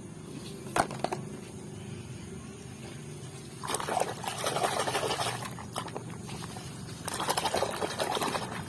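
Water splashing and sloshing as a muddy toy vehicle is swished and rubbed clean in water, in two spells, with a small knock about a second in.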